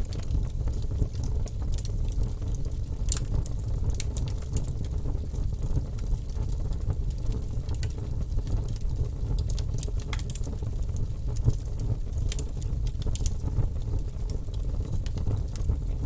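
Wood fire in a fireplace crackling, with a steady low rumble and frequent sharp pops and snaps at irregular intervals.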